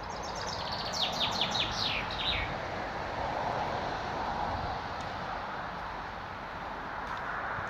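A songbird sings one phrase of about eight quick notes, each sweeping downward, in the first two and a half seconds, over a steady rushing background noise.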